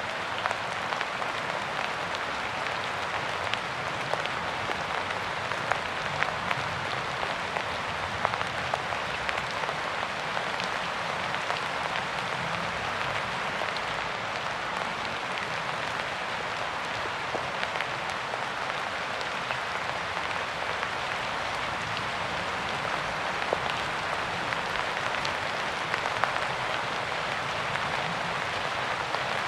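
Steady rainfall, an even hiss with many scattered individual drops tapping close by.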